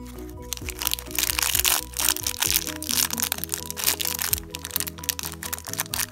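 Thin clear plastic bags crinkling and crackling as fingers handle and squeeze them, over background music with a simple repeating melody.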